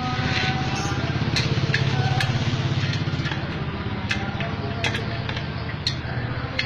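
Yamaha Jupiter MX 135's single-cylinder four-stroke engine running through an aftermarket FU-style exhaust, a fast, even pulse that swells over the first couple of seconds and then eases slightly. A few sharp ticks are heard here and there.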